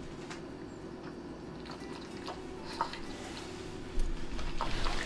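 Boston terrier lapping at its water bowl: faint, irregular wet clicks that come faster toward the end, with a soft thump about four seconds in.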